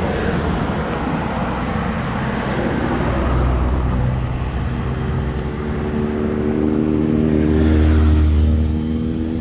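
Wind rush and road noise while riding a road bike, with a motor vehicle's engine drawing close from about halfway through, loudest near the end.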